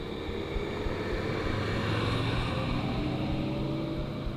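A motor vehicle passing by, its engine hum swelling to a peak about two seconds in and fading near the end, with wind rumbling on the microphone.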